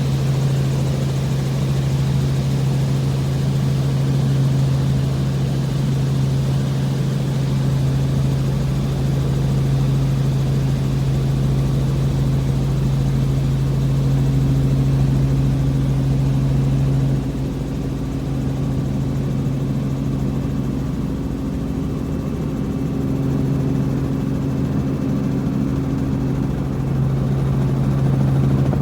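Helicopter in flight heard from inside the cabin: a loud, steady engine and rotor drone with a strong low hum, which fades for a few seconds past the middle and then comes back.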